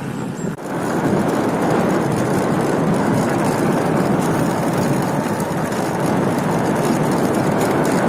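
Steady rushing noise of riding a fatbike at speed, wind on the microphone mixed with tyre roar, setting in about half a second in.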